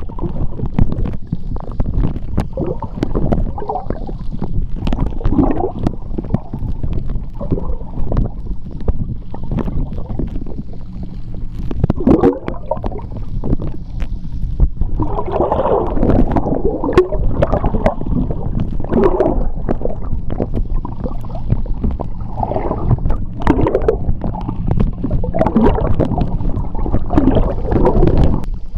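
Seawater heard underwater: a continuous low churning rumble with bubbly gurgles swelling and fading, and many sharp clicks scattered throughout.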